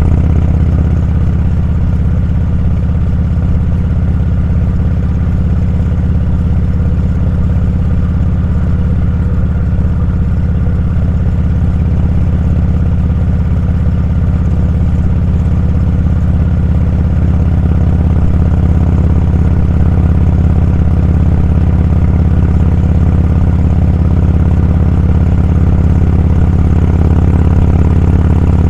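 Motorcycle engine running at a steady, unchanging pitch while riding, a loud low rumble.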